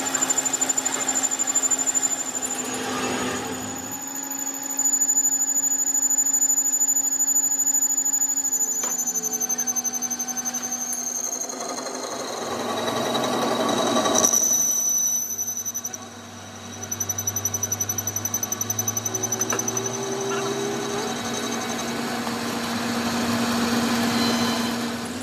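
A machine running steadily with a fast, even chatter, its level rising and falling, with a short drop about two-thirds of the way through.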